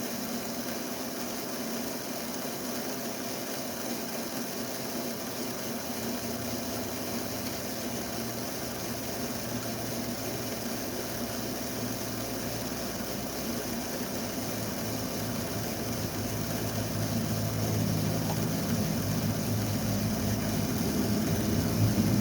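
Motor and heavy gearbox of a 1/10 scale RC dump truck running with a steady mechanical hum that grows louder and deeper over the last few seconds.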